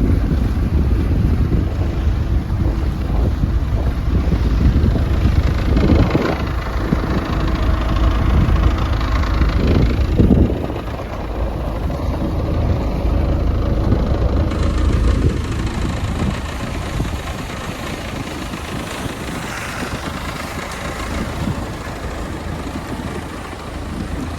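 Motorboat running on the water, with wind rumbling on the microphone; the wind rumble drops noticeably about ten seconds in.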